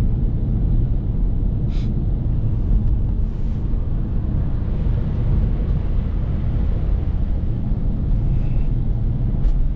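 BMW F30 335i's turbocharged straight-six running at low, steady revs, with tyre and road noise on a snowy road, a steady low drone heard inside the cabin. Two brief ticks, about two seconds in and near the end.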